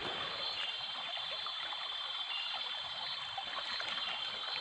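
Small stream running, a steady, even trickle and rush of water.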